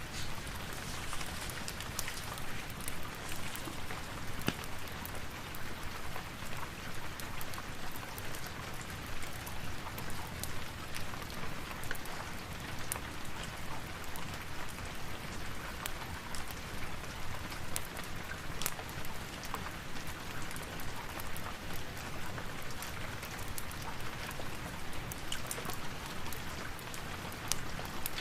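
Steady rain, an even dense hiss with scattered sharp clicks of individual drops or crackles.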